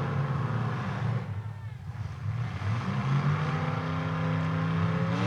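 Demolition derby car engines running under load as the cars push against each other, with one engine's pitch rising about three seconds in and then holding.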